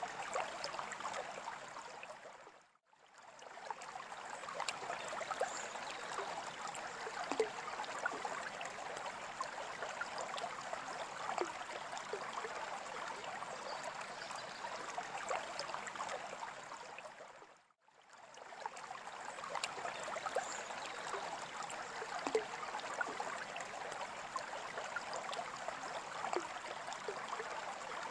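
Water trickling and bubbling steadily, with many small droplet ticks. It fades briefly to silence and back twice, about three seconds in and again about eighteen seconds in.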